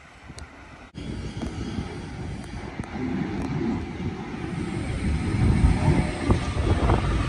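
Sydney Trains Waratah double-deck electric train arriving at the platform. Its low rumble comes in suddenly about a second in and grows louder as it nears, with a steady whine joining near the end.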